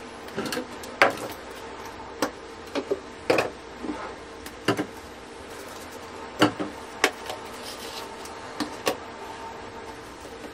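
Irregular light knocks and clicks, about a dozen, of household items being handled and set down, over a steady hum.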